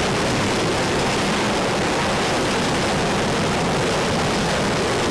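Jet engines running on an aircraft carrier's flight deck: a steady, even rushing noise.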